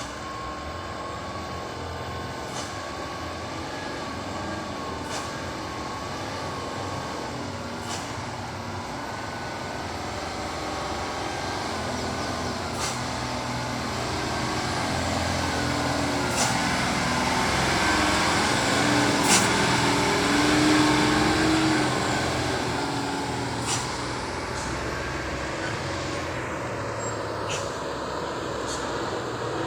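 Heavy dump truck's diesel engine running under load, swelling to its loudest about two-thirds of the way through and then easing off, with short, sharp clicks at intervals.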